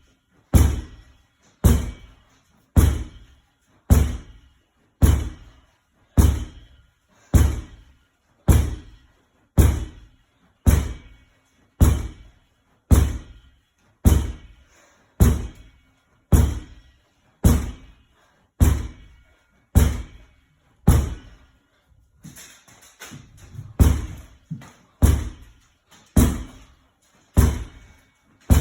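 Medicine ball wall-ball shots: the ball thuds against the wall about once a second in a steady rhythm, with a short break of smaller knocks about three-quarters of the way through before the thuds resume.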